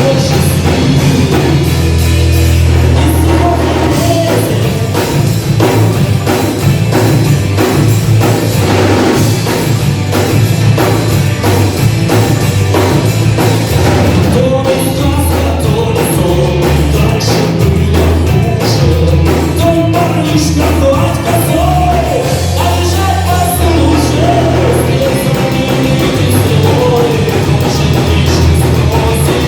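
Rock band playing live: a loud, steady mix of drum kit, bass and electric guitar, with a wavering melody line over it.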